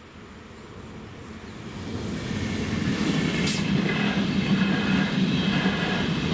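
A train approaching and running through a railway level crossing. Its rumble grows louder over the first couple of seconds, then holds steady and loud, with a higher metallic ringing over it.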